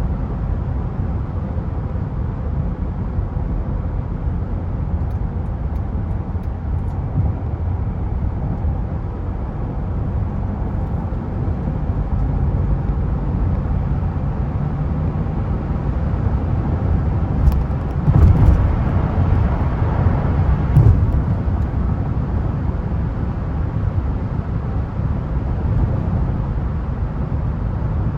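Steady rumble of engine and road noise from a 2008 Mercedes-Benz E320 Bluetec being driven; its engine is the 3.0-litre OM642 V6 turbo diesel. The noise swells for a few seconds past the middle, with a few sharp clicks.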